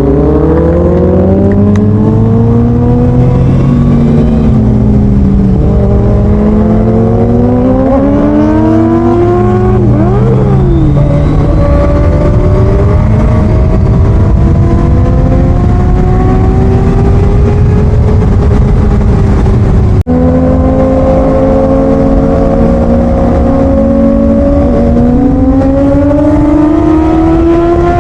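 Motorcycle engine running under way, its pitch climbing as it accelerates and falling back between gears, over steady low road noise. The sound drops out for an instant about twenty seconds in.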